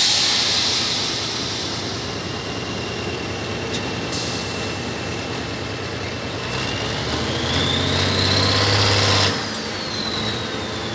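Turbocharged diesel super stock pulling tractor at full power, a loud hiss at first, then a high turbo whine that holds and then climbs as the engine pulls harder. The power cuts off abruptly near the end and the turbo whine winds down.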